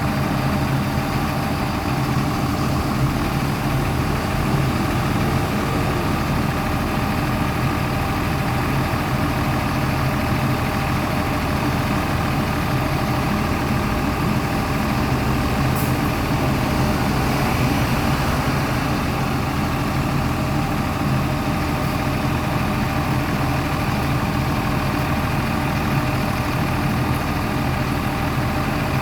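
Mitsubishi Fuso Aerostar city bus's diesel engine idling steadily.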